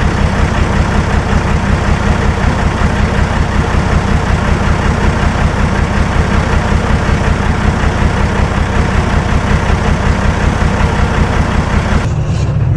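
Heavy diesel engine of earthmoving machinery running steadily, a fast even throb under a loud noisy rush. About 12 seconds in the sound changes abruptly to a deeper, more muffled engine note.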